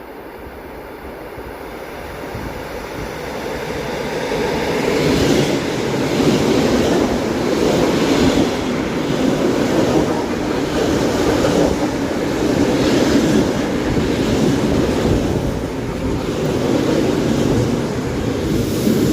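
ED4M electric multiple unit running in along the platform, its wheels rumbling on the rails. The sound grows louder over the first few seconds as it comes close, then holds loud with a rhythmic surge about every second and a half as the bogies pass.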